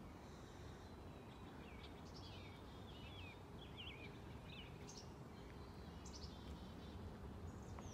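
Faint songbird calls: a quick string of short chirps and whistles, with a few more near the end, over a steady low background rumble.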